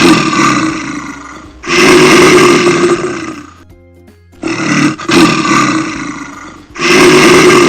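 A bear roaring four times, each roar rough and lasting about two seconds, in two pairs with a short pause between them.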